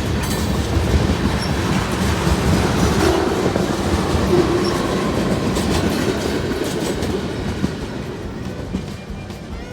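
Manifest freight train rolling past, its wheels clicking over the rail joints, with the sound tapering off over the last couple of seconds.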